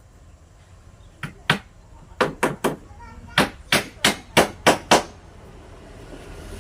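Hammer striking wood, about eleven sharp blows in quick groups of two and three, starting about a second in and stopping around five seconds in.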